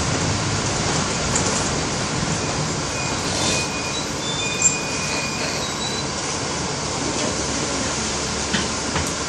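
Steady running noise of a city bus, engine and road noise together, with a faint high whine for a second or two in the middle and a light click a little later.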